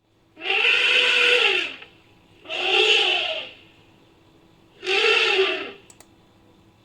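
Three trumpet-like creature calls made from an edited elephant recording, each rising and then falling in pitch. The first runs over a second and the next two are shorter, with quiet gaps between them.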